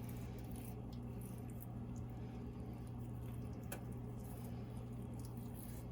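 A knife slicing through a raw chicken breast, with soft squishes and scattered light clicks, over a steady low hum.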